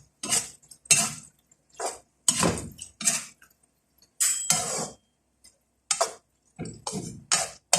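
A spoon clinking and scraping against a cooking pot, in a dozen or so short separate strokes with brief silences between.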